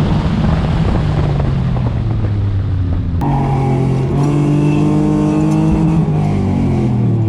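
Autocross car's engine running hard under rushing wind and road noise; about three seconds in there is a sharp click, and the engine note then falls steadily as the car slows down.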